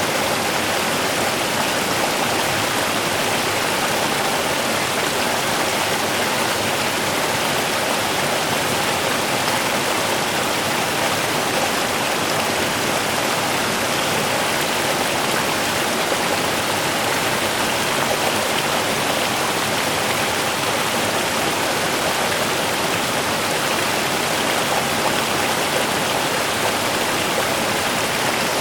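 Small river running and splashing over stones, a steady, even rush of water.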